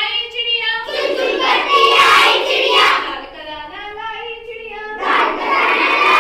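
A group of children singing a Hindi nursery rhyme together in unison.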